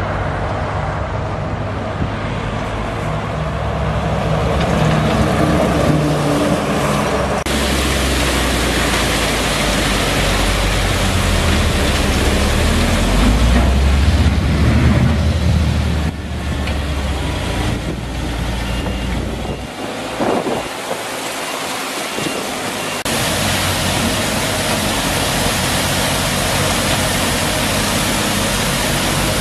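Screening machine for sorting material into two sizes running: a steady machine hum with a dense rushing noise over it. The sound changes abruptly several times.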